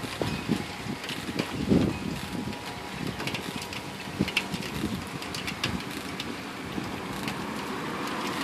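Gusty storm wind blowing outdoors, a steady rushing noise, with scattered soft knocks and rustles throughout.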